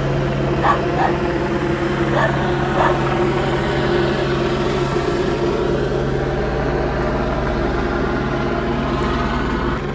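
A dog barks about five times in the first three seconds over a steady low hum and hiss.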